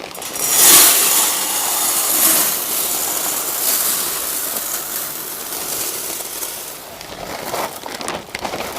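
Glass fire chips poured from a bag into the fire bowl of a gas fire table: a steady rattling hiss of tumbling glass pieces, loudest about a second in and slowly thinning out, with a few separate clinks near the end.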